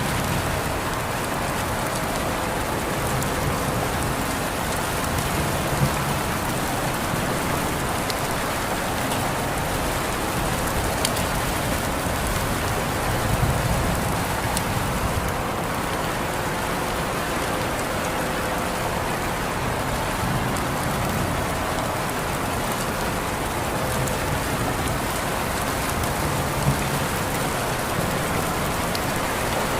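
Steady rain falling and pattering on surfaces, with a few single louder drop ticks.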